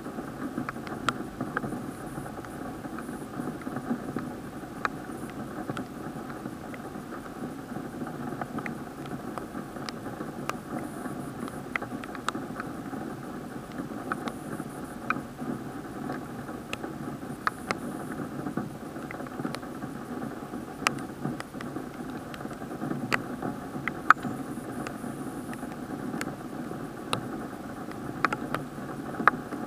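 Raindrops striking the camera's sealed plastic waterproof housing as scattered sharp ticks at irregular intervals. Under them is a steady muffled rain noise, dull because it is heard through the case.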